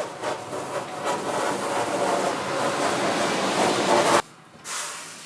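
Sanding the wooden stringer of a polyurethane surfboard blank: a steady, scratchy rasp that stops abruptly about four seconds in.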